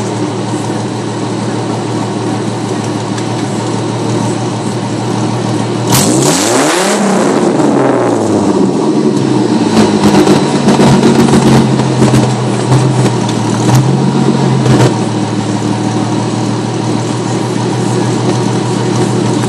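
1998 Ford Mustang 3.8-litre V6 running through a glass-pack dual exhaust with an H-pipe and no catalytic converters. Its note sweeps in pitch suddenly about six seconds in, then runs a little louder and steady for several seconds before easing back.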